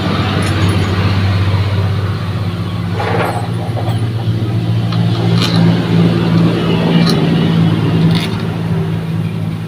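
A machine running steadily with a loud low hum, joined by a few light metallic clicks of tools.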